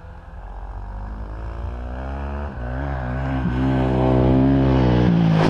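Dirt bike engine running at fairly steady revs, getting steadily louder.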